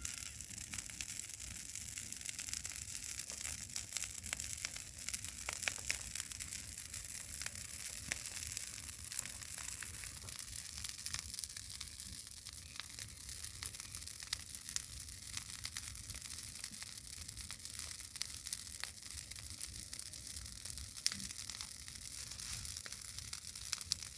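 Large bonfire of dry twigs and thorny brush burning: a steady hiss with many sharp crackles and pops.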